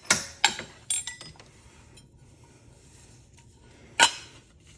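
Sharp metallic clinks and knocks of ceiling fan parts being handled: three quick ones in the first second, then a single louder one about four seconds in.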